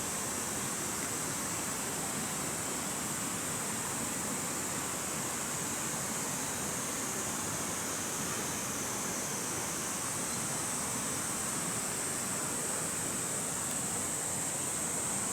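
Steady, unbroken rush of running water, with a constant high hiss above it.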